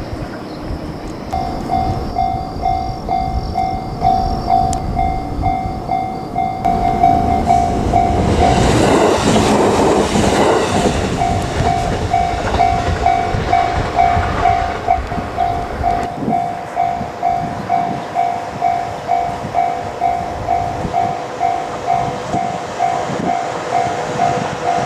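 Japanese railway level-crossing warning bell ringing steadily at about two strokes a second, with a train passing close by and drowning it out about seven to eleven seconds in; the bell keeps ringing after the train has gone.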